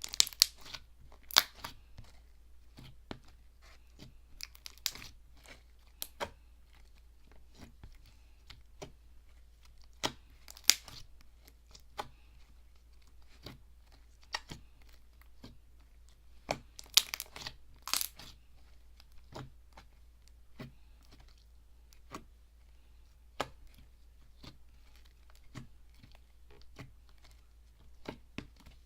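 Slime being squeezed, poked and stretched by hand, making irregular clicks and crackles with a few louder pops.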